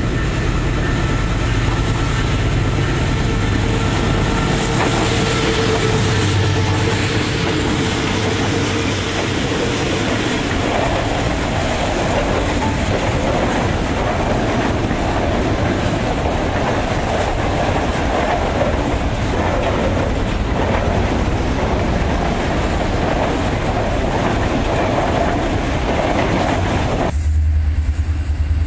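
Diesel-electric freight locomotives running under power as they come up and pass, followed by a long string of freight wagons rolling by with steady wheel-on-rail clatter. Near the end the sound cuts abruptly to the low, steady rumble of another diesel locomotive approaching.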